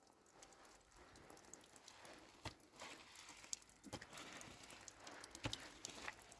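Faint patter of rain, with scattered sharper drips tapping now and then.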